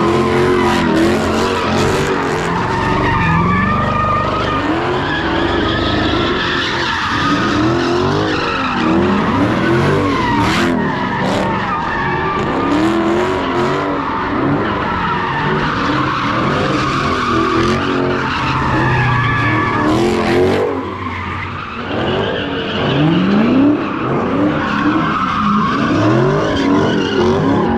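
Car engines revving up again and again over continuous tyre squeal from burnouts, with a brief dip a little past the middle.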